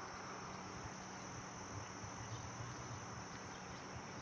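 Faint, steady insect chorus: one unbroken high-pitched drone, with a low hum beneath.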